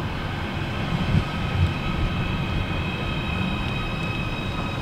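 Stadler-built Merseyrail Class 777 electric train running at a station, a steady low rumble with a faint, steady high whine over it.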